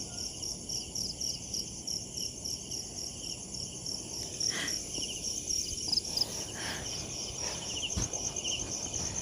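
Insects, crickets by their sound, chirping steadily in rapid, even high-pitched pulses, with a few faint knocks, the clearest a low one about eight seconds in.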